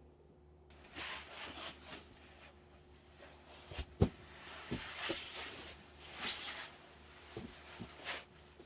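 Rustling and handling noises with several dull knocks, the sharpest about halfway through.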